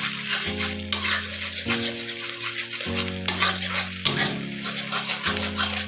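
Beaten eggs sizzling in hot oil in a kadai while they are stirred and scrambled, with a few sharp scrapes of the stirrer against the pan.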